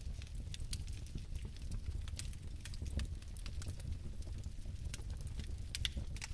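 Fire crackling: irregular sharp pops and ticks, several a second, over a steady low rumble of flame.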